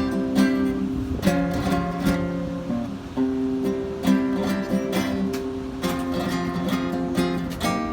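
Acoustic guitar played flamenco-style: plucked melody notes over held chords, with sharp strummed chords at irregular points.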